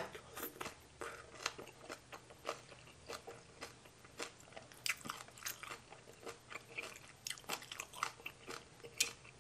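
Someone chewing a mouthful of spicy mixed salad with crunchy raw vegetables, a steady run of crisp crunches and wet chewing, with one sharper crunch near the end.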